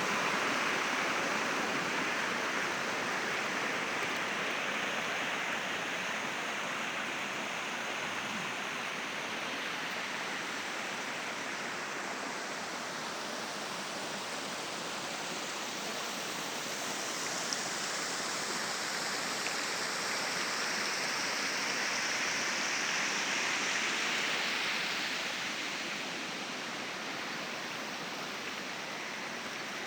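Rushing water of a stream, a steady even flow that swells a little past the middle and eases near the end.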